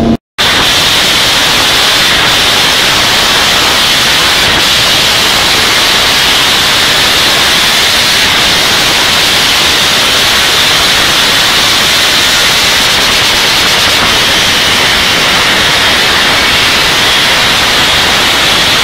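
Loud steady hiss like static or white noise, with no engine note in it, which starts and stops abruptly.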